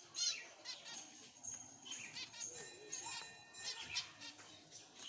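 Zebra finches calling: many short, high chirps, one after another and overlapping, with a few brief held notes.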